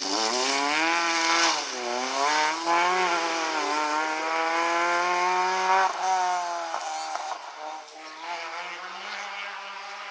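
Ford Puma rally car's engine revving hard as the car accelerates past and away, its pitch climbing with a short dip about two seconds in. The pitch drops about six seconds in and the engine fades with distance.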